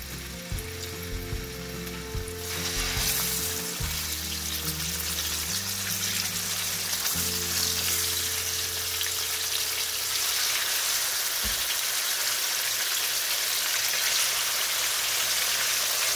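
Pork chops sizzling as they are laid one after another into hot oil in a skillet. The frying hiss gets louder about two and a half seconds in, as more chops go into the pan, and keeps building.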